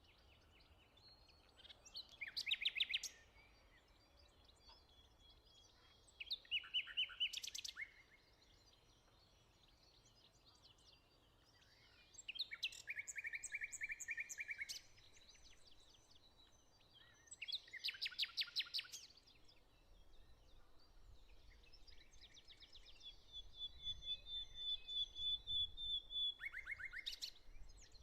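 Songbirds singing: short, fast trilled phrases repeated every few seconds, with a longer, even trill a little before the end. A faint low rumble sits underneath in the second half.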